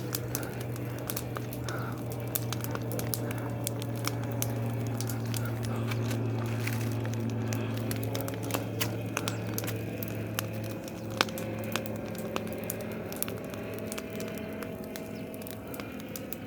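A bonfire of dry leaves and cut branches burning, with irregular sharp crackles and pops throughout over a steady low hum.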